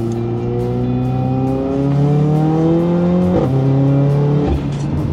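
Mercedes-AMG A45's turbocharged four-cylinder engine with a Milltek exhaust, heard from inside the car while accelerating. The engine note rises steadily and drops sharply at quick gear changes, about three and a half seconds in and again a second later.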